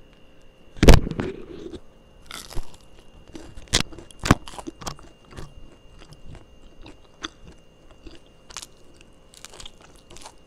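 Crisp flatbread being bitten and chewed: a loud crunch about a second in, then scattered crackling crunches.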